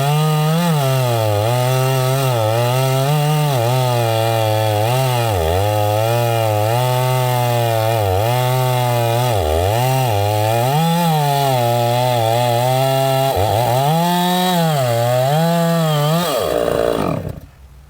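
Chainsaw running at high revs while cutting pine wood, its pitch wavering and dipping briefly as the chain bogs in the cut. Near the end the pitch falls steeply as the throttle is let off and the saw winds down.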